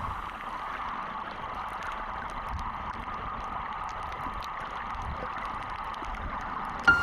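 Steady water hiss and gurgle of underwater ambience around a reef, with faint scattered clicks. A sudden sharp knock sounds just before the end.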